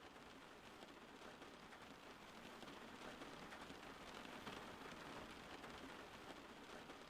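Steady, soft rain falling: an even hiss of many fine drops pattering, with no breaks or louder strikes.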